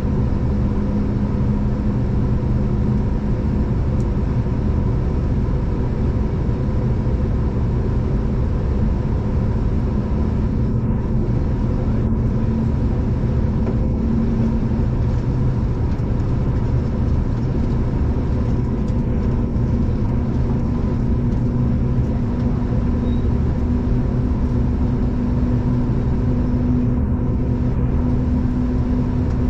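Steady running noise inside a V/Line diesel passenger train: a low rumble of wheels on track with a steady engine hum that fades about halfway and returns slightly higher.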